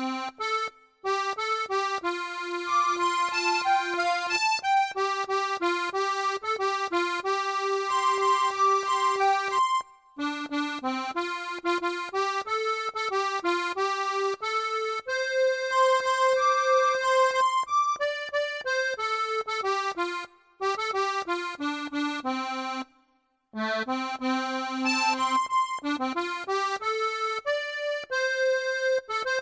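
Accordion playing a slow song melody over held chords, with a faint steady low beat underneath. The phrases are separated by brief gaps, the longest about 23 seconds in.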